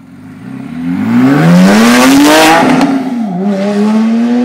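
Porsche 911 GT3 RS (997) naturally aspirated flat-six accelerating hard past at high revs, its pitch climbing steeply. About three seconds in the pitch dips briefly, then climbs again as it keeps pulling away.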